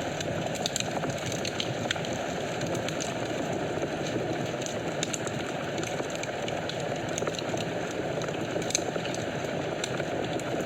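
Wood fire in a fireplace burning, a steady low rush of flames with frequent small sharp crackles and pops scattered throughout.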